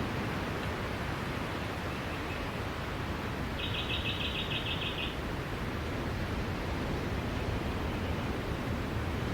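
Steady wash of sea surf with no distinct wave breaks. About three and a half seconds in, a bird gives a short, rapid trill lasting about a second and a half.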